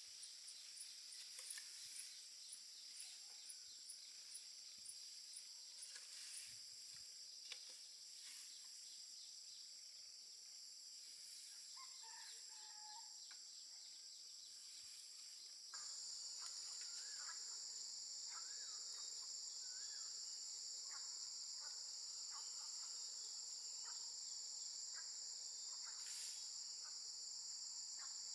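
Outdoor insect chorus of crickets, a steady high-pitched drone. It gets suddenly louder a little over halfway through, with faint scattered chirps of birds in the background.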